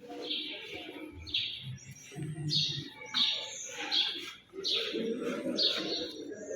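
Small birds chirping over and over: short, high, falling chirps, a little more than one a second.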